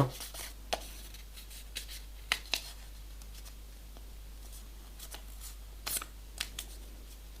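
A small square of printer paper being folded and creased by hand: scattered soft crinkles and taps, the clearest a couple of seconds in and again about six seconds in.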